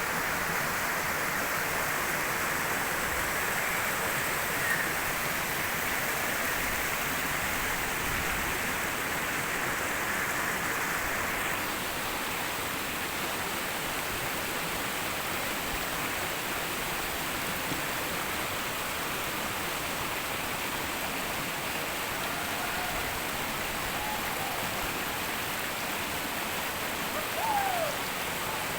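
Steady rush of flowing water, with a few faint short calls rising and falling in pitch near the end.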